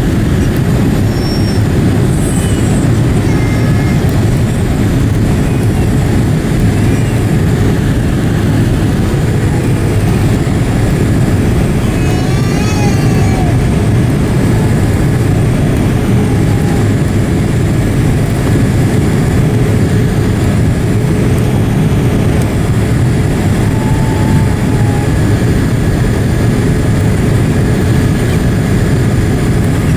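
Steady low rumble of engine and airflow noise inside the cabin of a Boeing 787-8 on approach, holding an even level throughout.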